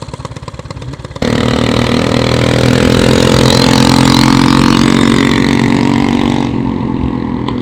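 Motorcycle engine idling with a rapid pulse, then about a second in it suddenly gets much louder and runs at steady revs as the bike rides off, with a loud rushing noise over it. The rushing noise drops away about a second before the end.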